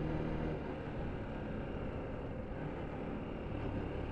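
Motorcycle on the move: the engine runs under a steady rush of wind and road noise. A low engine tone drops away about half a second in, leaving mostly the wind rush.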